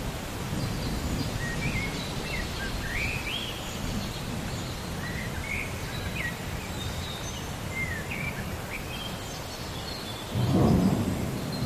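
Rain with low rolling thunder, and birds chirping over it. A louder rumble of thunder swells about ten seconds in.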